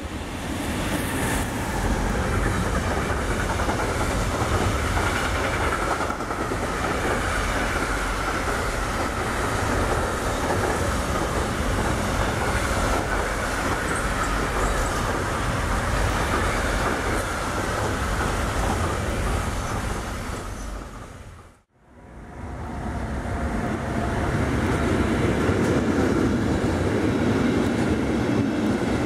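Electric-hauled container freight train passing close by: a steady heavy rumble of wagons with clickety-clack over the rail joints and a high ringing tone that slowly drops in pitch. The sound cuts out briefly about three-quarters of the way through, then resumes.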